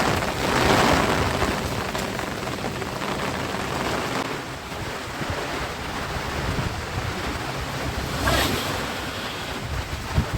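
Steady rushing wash of a fast-flowing flooded river, with wind gusting on the microphone; a brief louder rush comes about eight seconds in.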